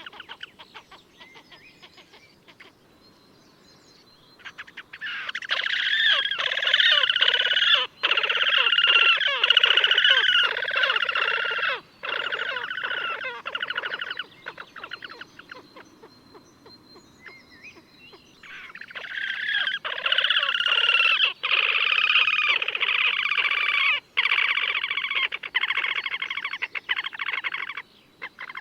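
Slavonian grebes giving long, rapid, trilling and squealing calls that glide up and down in pitch, in two bouts of about eight seconds each, with quieter calling between them.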